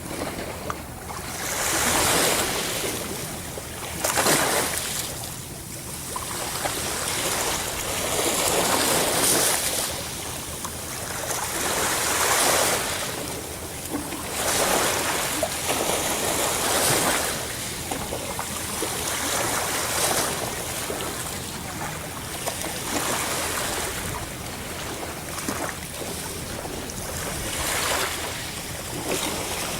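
Sea waves breaking and washing onto the shore, one swell of surf every two to three seconds.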